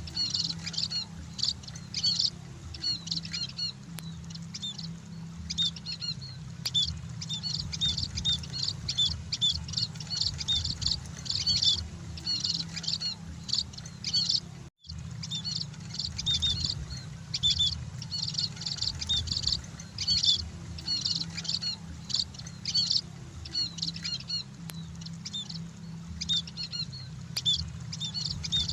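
Munias (emprit) chirping without pause in quick, high, short notes over a steady low hum. The sound drops out for an instant about halfway through.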